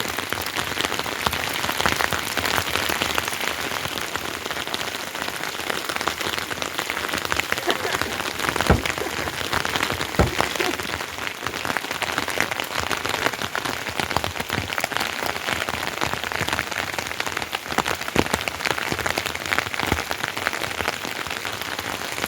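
Heavy rain falling steadily, a dense patter of drops on surfaces, with a few louder single drop knocks about nine and ten seconds in.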